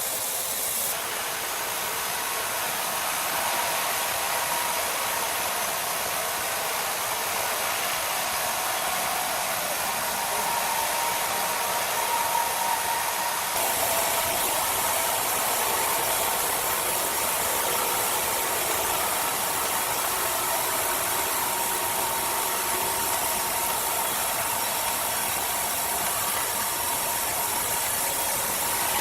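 A machine's motor running steadily with a thin, steady whine. The sound changes abruptly about a second in and again about halfway through.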